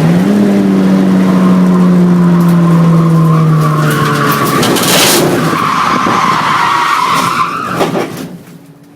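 Hyundai Excel race car's 1.5-litre twin-cam four-cylinder engine running at high revs, its pitch slowly falling. Then the tyres squeal for about three seconds as the car slides, fading out near the end.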